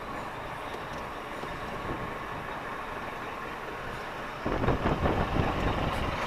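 Lorry's diesel engine and road noise heard from inside the cab, a steady rumble that grows louder and rougher about four and a half seconds in.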